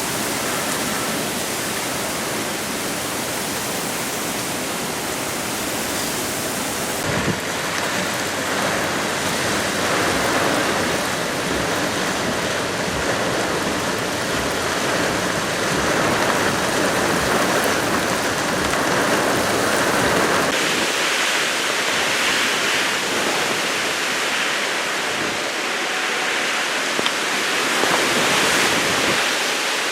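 Heavy typhoon rain and wind: a loud, steady rushing that swells and eases in surges.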